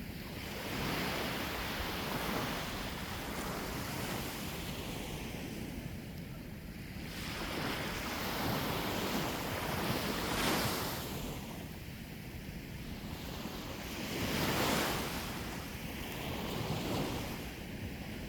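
Sea waves breaking and washing on the shore, the surf swelling and fading every few seconds, with some wind noise on the microphone.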